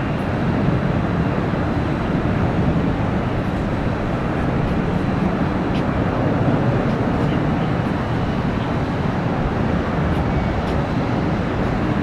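Steady rumble of jet airliner engines, an even noise with no sudden changes.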